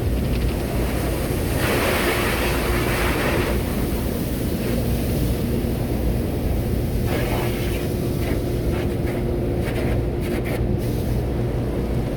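Automatic car wash heard from inside the car: a steady low rumble of machinery with a faint hum, and the wash hissing over the car in two louder passes, about two seconds in and again about seven seconds in.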